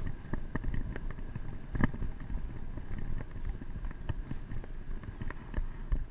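Irregular knocks and rattles from a bicycle being ridden over rough ground, over a steady low rumble, with one sharper knock about two seconds in.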